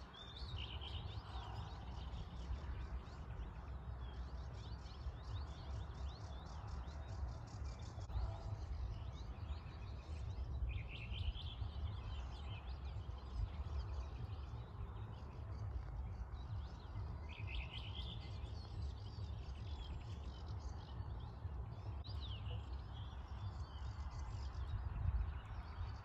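Small birds chirping, several short phrases a few seconds apart, over a steady low rumble.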